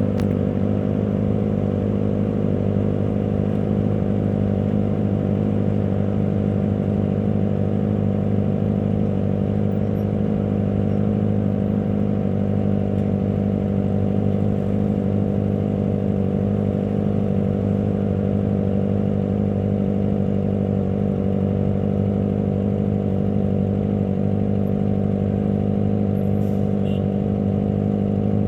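Kawasaki ZX25R's 250 cc inline-four engine running at a steady engine speed, holding one unchanging note with no revving.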